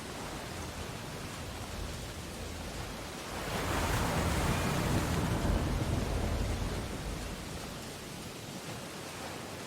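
Ocean surf on a beach: a steady wash of waves, with one wave breaking about three seconds in, swelling louder and hissing for a few seconds before easing back.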